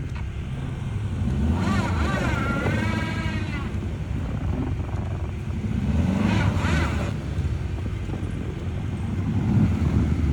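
Tractor's diesel engine running steadily with a low rumble. A brief wavering, high-pitched sound rises and falls about two seconds in.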